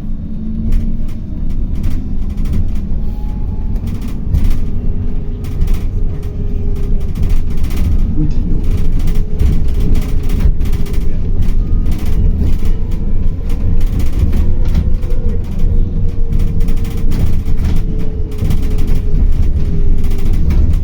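City bus driving, heard from inside: a steady low rumble with a faint whine that slowly rises and falls in pitch, and frequent short rattles and knocks.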